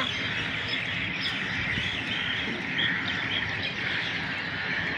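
Small birds chirping now and then over a steady outdoor background noise.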